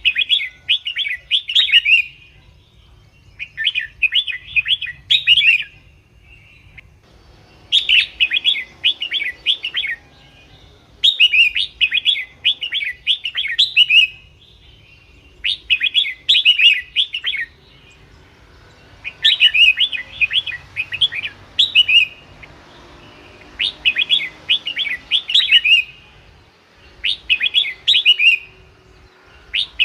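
Red-whiskered bulbul singing: phrases of quick notes about two seconds long, repeated every three to four seconds.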